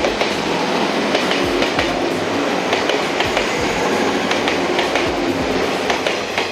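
Electric train running along the track, a steady rumble with wheels clicking over rail joints at irregular intervals.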